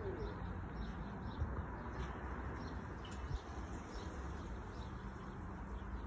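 Faint outdoor ambience: birds calling in the background over a steady low rumble, with a few soft knocks.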